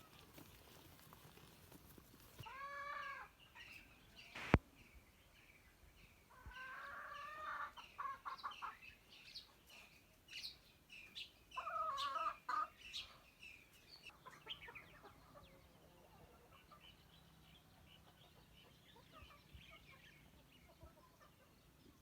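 Birds calling in short runs: a few groups of pitched calls and higher chirps, with one sharp click about four and a half seconds in.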